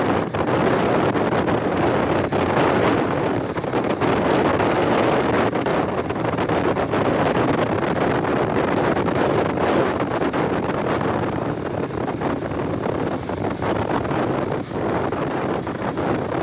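Wind rushing and buffeting against the microphone, steady and loud throughout.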